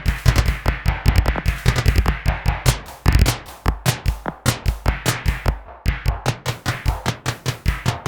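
Nord Drum 3P percussion synthesizer playing a preset electronic drum kit through a sequenced rhythm pattern: a fast, dense run of sharp clicky hits over deep pitched kick-drum thumps.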